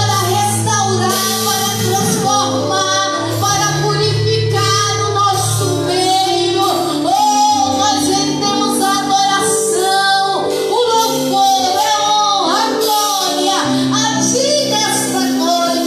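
Worship song: a singing voice over a band, with long held bass notes underneath.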